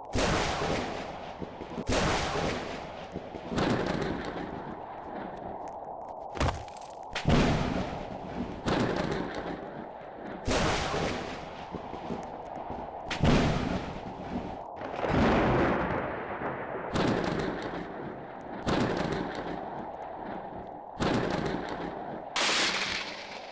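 Thunder cracking again and again, a sharp crack every second or two, each one rumbling away, over a steady noise bed.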